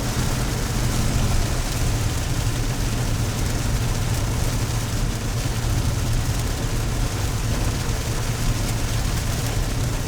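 Steady car engine and road noise heard from inside a moving car, with rain.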